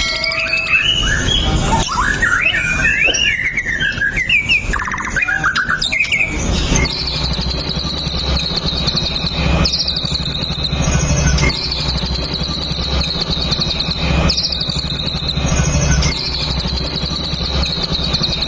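White-rumped shama singing: a run of varied, quickly gliding whistled phrases. About seven seconds in, it gives way to a short, high, falling call repeated every couple of seconds over a steady low hum.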